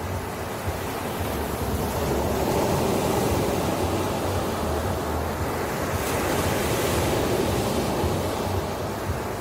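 Ocean surf: waves breaking and washing, the rush swelling over the first couple of seconds and ebbing near the end, with a low rumble underneath.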